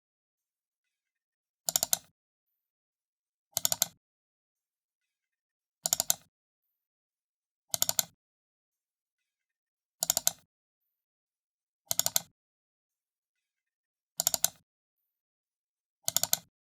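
Computer mouse button double-clicked, over and over: each double click is a quick pair of sharp clicks, repeated about every two seconds with silence between.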